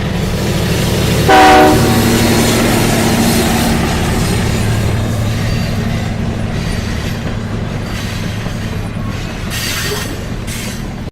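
Train running with a steady low rumble, and one short horn blast about a second and a half in, the loudest moment. The sound cuts off suddenly at the end.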